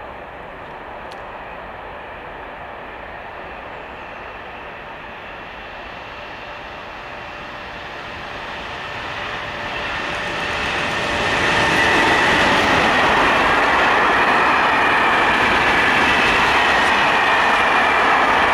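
An electric freight train approaching and passing. The rail noise swells from about eight seconds in until the locomotive goes by, then stays loud and steady as the covered sliding-wall wagons roll past with a rattling rumble.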